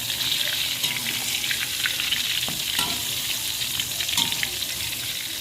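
Tempe frying in hot oil: a steady sizzle with scattered crackles and pops.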